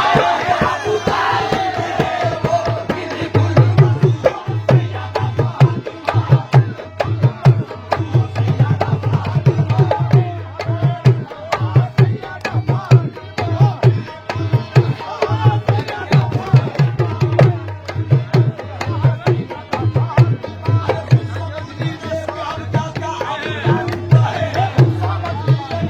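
Qawwali music in an instrumental passage: a dholak drumming a fast, steady rhythm under a melodic accompaniment, with the end of a sung phrase in the first second or two.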